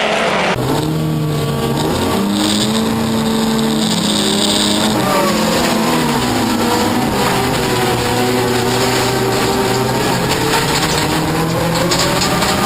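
Toyota Corolla off-road racing car's engine running hard. Its pitch climbs and drops again and again with throttle and gear changes, over a constant rush of road and tyre noise.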